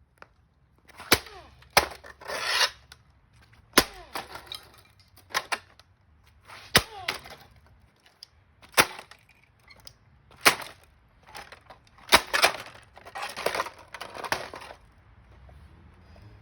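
A series of hard blows, about ten strikes one to two seconds apart. Several are followed by cracking and rattling, like something splintering or breaking apart.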